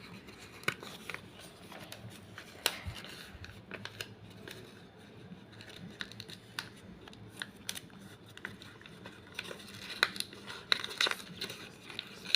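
Sheet of paper being folded and creased by hand, with soft rustling and scattered sharp crackles, the crackles thickest near the end.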